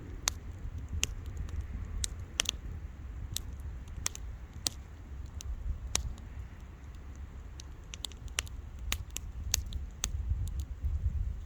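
Wood fire crackling: irregular sharp pops and snaps from burning wood over a low rumble.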